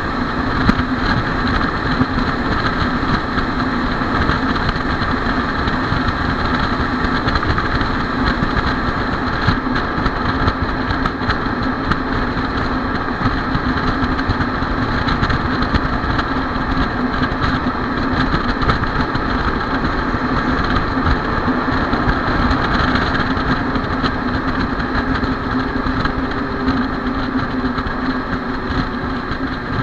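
Fire engine's diesel engine running steadily, a constant drone with no change in pace.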